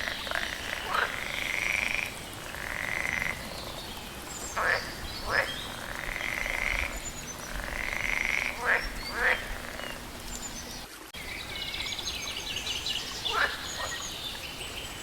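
Frogs croaking: repeated calls about a second long alternate with short, downward-sweeping calls. About eleven seconds in the sound breaks off abruptly and gives way to a denser, higher chorus.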